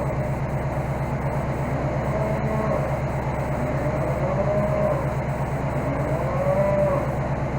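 Case skid steer's engine running steadily, with cattle mooing over it a few times.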